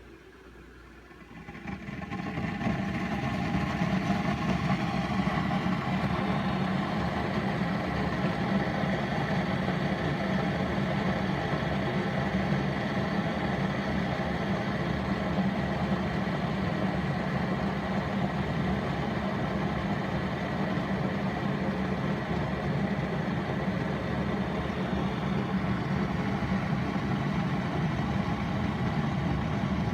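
Keurig K-Classic single-serve coffee maker brewing: its pump starts about a second and a half in and runs with a steady loud hum.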